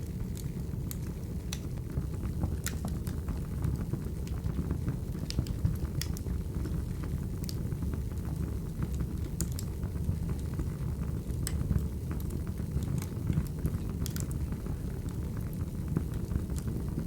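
Wood fire crackling: a steady low rumble with irregular sharp pops and snaps scattered throughout.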